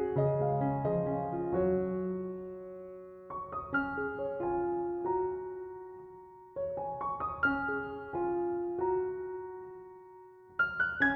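Gentle background piano music: short phrases of notes, each left to ring and fade before the next phrase begins.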